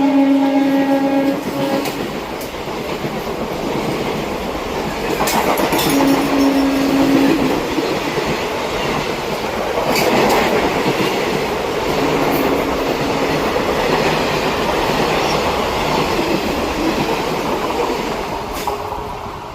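A train running past, its wheels clattering steadily over the rails. The locomotive horn sounds a held single note right at the start and again about six seconds in, with a fainter blast around twelve seconds.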